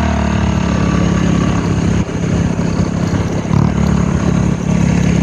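Vehicle engine running steadily under way, with a brief dip in level about two seconds in.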